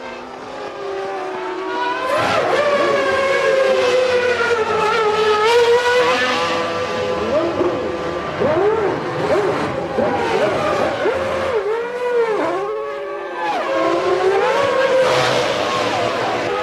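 Formula One race-car engines at high revs, rising and falling through the gears. The sound grows louder about two seconds in. Around twelve seconds in, the pitch drops in several quick dips, typical of downshifts or cars sweeping past.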